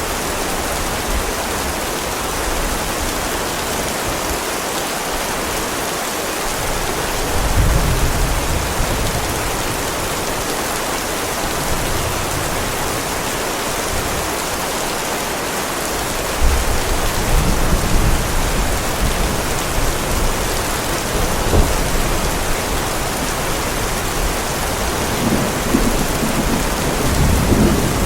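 Steady heavy rain, with low thunder rumbling in several rolls, about a quarter of the way in, again past halfway and near the end.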